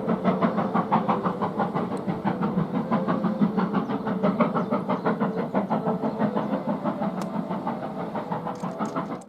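Steam locomotive working a train with a quick, even run of exhaust beats, about four or five a second, slowly fading as it draws away.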